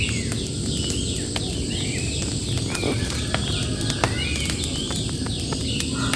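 Small birds chirping repeatedly in short, pitch-sweeping calls over a steady low rumble. Sharp pops and clicks are scattered through it, the crackle of bamboo and old tyres burning.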